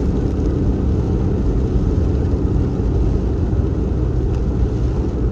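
Car driving along at steady speed: a continuous low engine and road rumble.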